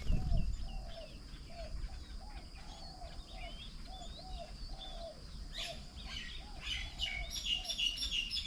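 Mixed birdsong at a garden bird table. A low curved call repeats about twice a second over scattered high chirps, and from about seven seconds in a busy high chattering builds up. A low rumble fades in the first half second.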